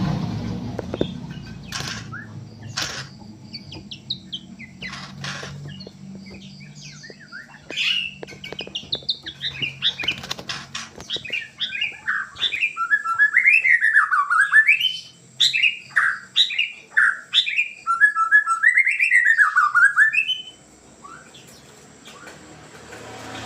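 A pet songbird calling: a few sharp clicks at first, then a long run of quick rising-and-falling whistled notes that stops a few seconds before the end.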